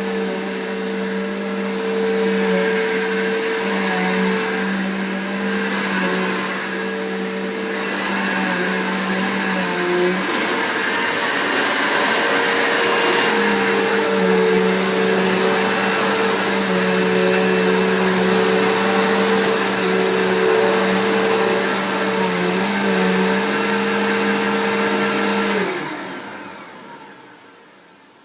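Bissell PowerForce Bagged upright vacuum cleaner running with a steady motor hum and airflow rush, its pitch dipping briefly now and then. Near the end it is switched off and the motor winds down over about two seconds.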